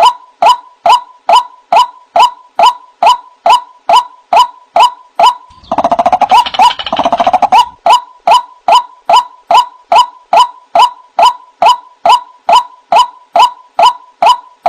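White-breasted waterhen calling: a loud, evenly repeated short note, about two a second. It breaks briefly into a faster, more tangled run of calls a little over halfway through, then the steady repeats return.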